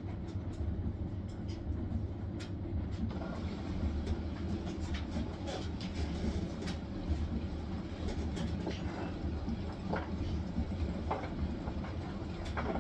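Hisense washing machine on its spin cycle: a steady low drum rumble with irregular light clicks and knocks over it.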